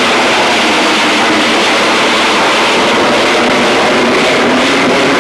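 Jet aircraft engine noise: a loud, steady rushing hiss.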